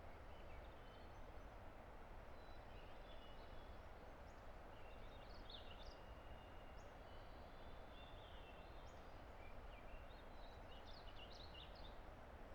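Steady, faint rush of a distant river, with songbirds singing short high chirps and trills over it, several grouped in the middle and again near the end.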